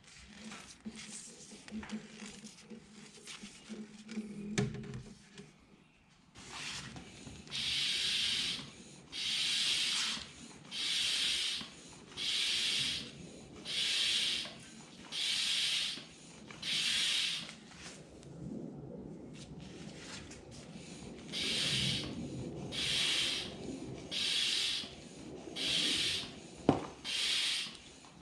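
Hand-pumped vacuum oil extractor being pumped to draw engine oil out from the top: a rhythmic hiss of air with each pump stroke, about one every second and a half, in two runs with a short pause between. A few seconds of rubbing and handling noise come first.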